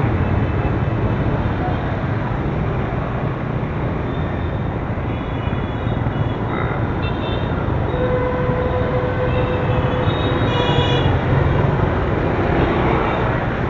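Riding a motorbike through city traffic: a steady loud rumble of engine, tyres and wind. Several short high horn beeps come from the surrounding traffic, the clearest a little past the middle.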